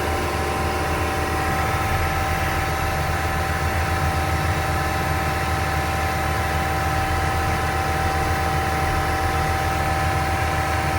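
Four-cylinder Deutz diesel of a Venieri 10.33C backhoe loader running steadily at full RPM, powering a HitchDoc snowblower attachment, with a constant hum of several steady tones.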